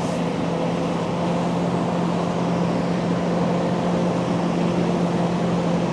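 Diesel engine of a heavy recovery truck running steadily at low revs with an even, constant hum as the truck edges slowly onto the ramp.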